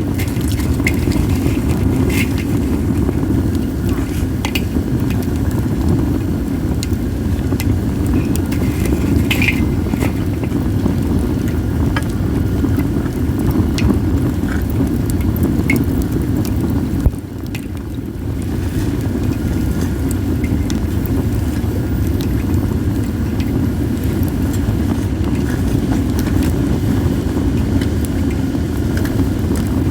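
Wood fire of acacia and other firewood crackling, with scattered sharp pops, under a steady low rumble of wind on the microphone that eases briefly a little past halfway.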